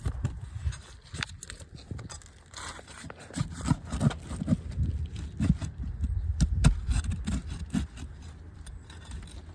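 Roofing nails being pulled from old asphalt shingles: a hand tool scraping against the shingles and clicking and knocking on metal. The knocks come in a quick, uneven run, busiest in the middle.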